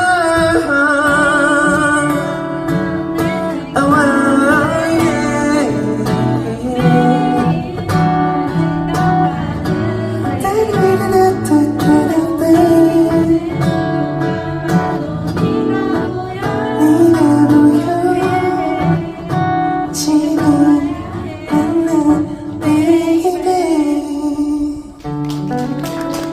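Acoustic guitar playing with a singer's voice as a song draws to its close, a long wavering sung note near the start.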